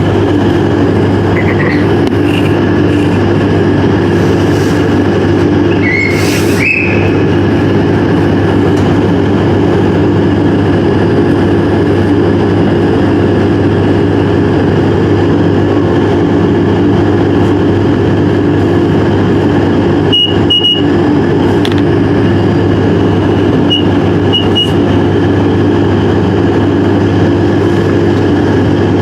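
Train running: a loud, steady drone with a constant low hum, broken by a few short high beeps about two-thirds of the way through.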